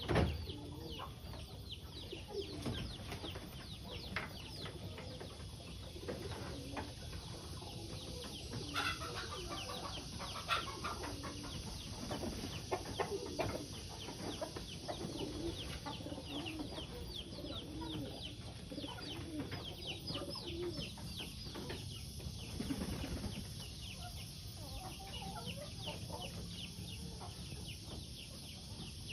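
Domestic pigeons cooing in low, repeated calls, mixed with many quick high chirps from other birds.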